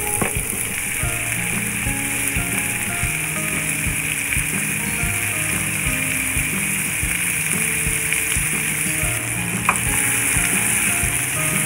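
Chicken gizzards frying in olive oil in a non-stick frying pan, a steady sizzle as they are turned to sear both sides.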